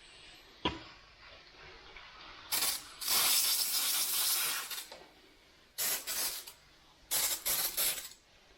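Spray bottle misting water in four hissing bursts, the longest lasting nearly two seconds, after a single sharp click less than a second in.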